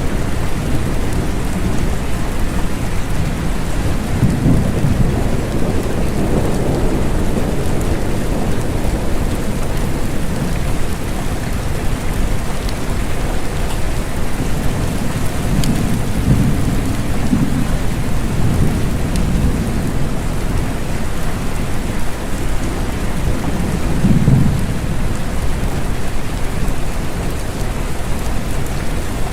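Steady rain falling, with low rumbles of thunder swelling up a few times, about four seconds in, around sixteen to nineteen seconds, and again near twenty-four seconds.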